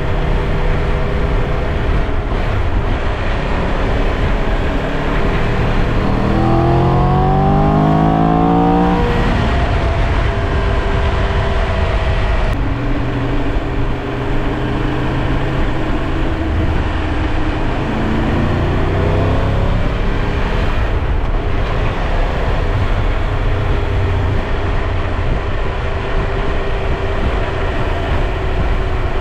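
Triumph Tiger 1200 Rally Pro's three-cylinder engine running under way, over a steady rush of wind and road noise. The revs climb from about 6 to 9 seconds in and rise again briefly around 18 to 20 seconds in.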